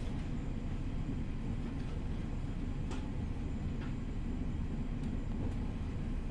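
Running noise of a JR East E501 series electric train heard from inside the car, moving at reduced speed under a strong-wind restriction: a steady low rumble with a few faint clicks.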